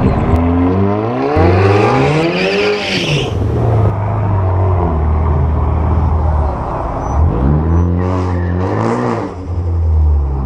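Turbocharged four-cylinder hatchback engine idling and revved twice at a drag-strip start line; each rev climbs and drops back over about two seconds, the first starting about half a second in and the second around seven and a half seconds, with a brief hiss at the top of the first.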